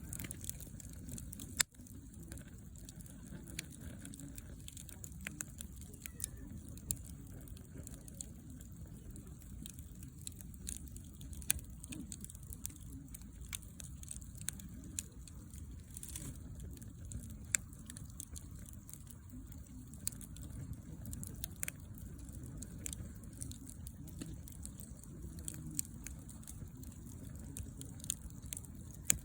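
Wood campfire burning, with scattered crackles and a few sharper pops of the firewood over a steady low rumble.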